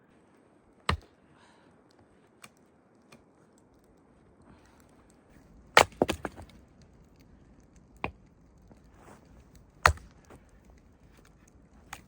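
Wood being chopped: about five sharp strikes at uneven intervals, the loudest about six seconds in, followed at once by a short run of smaller cracks as the wood splits.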